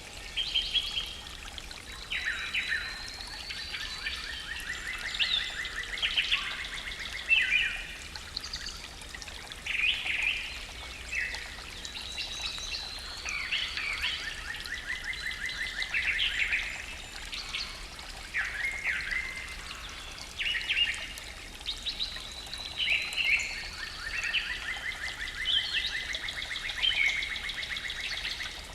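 Several songbirds singing in a morning forest: overlapping chirps, whistles and short phrases, with one rapid trill recurring roughly every eleven seconds.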